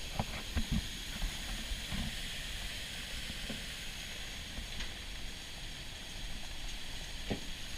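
Whitewater River in muddy flash flood, rushing water making a steady hiss. A few short low thumps come in the first second, another at about two seconds, and one near the end.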